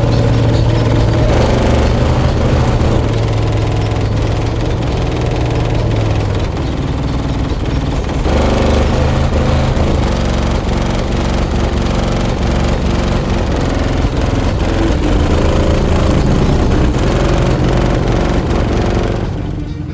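Car-audio system of four 18-inch subwoofers in a sixth-order bandpass box playing very loud bass, with held low notes that change every few seconds. It drops off just before the end.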